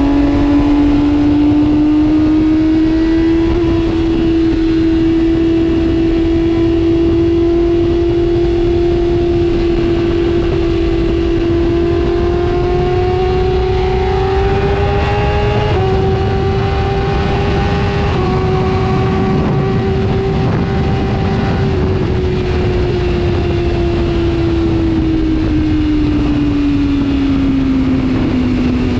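Sport motorcycle engine held at high revs in one long, steady run, its pitch climbing slowly and stepping up slightly twice around the middle, then falling away over the last several seconds as the bike slows.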